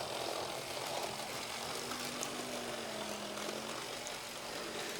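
Atlas Santa Fe model train locomotive running slowly on its track, its small electric motor giving a steady hum that wavers slightly in pitch. The locomotive is running smoothly at low speed.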